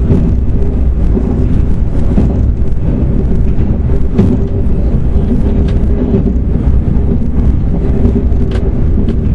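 Passenger train running, heard from inside the carriage: a loud, steady rumble of wheels and running gear with a faint steady hum. A few short clicks stand out, about four seconds in and again near the end.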